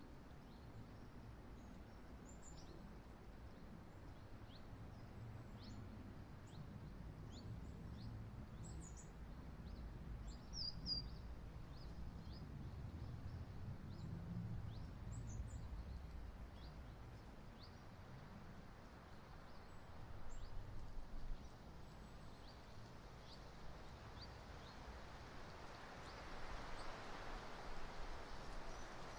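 Strong wind buffeting the outdoor webcam microphone, a low rumble that swells in gusts, with a louder rush of wind near the end. Faint, high, brief chirps of small birds come through again and again.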